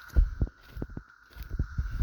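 Irregular dull thuds of footsteps while walking, loudest about a fifth of a second in, over the steady high-pitched drone of a cicada chorus.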